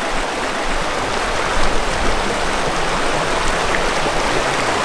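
River water rushing steadily over rocks, an even hiss of running current.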